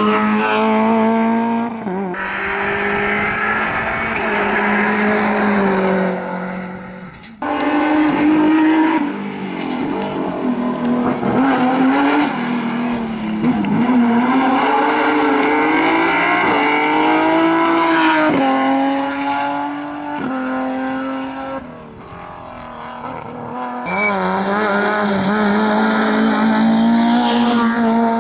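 Rally cars on a tarmac stage at full attack, engines revving up and dropping back through gear changes. The sound switches abruptly a few times as one car gives way to another.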